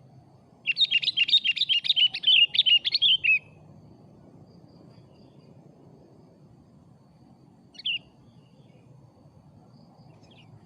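Sooty-headed bulbul singing: a fast, lively run of chirping notes for a little under three seconds, then a single short call near the end.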